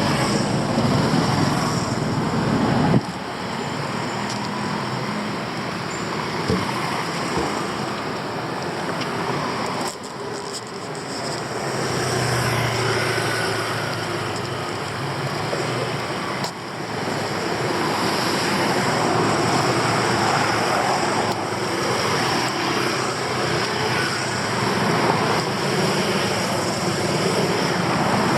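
Steady city traffic noise: passing cars and motorbikes with a continuous rumble of road noise, with a low engine hum swelling briefly about halfway through.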